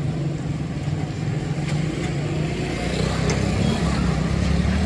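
A machine or engine running steadily with a low drone, with a few faint clicks.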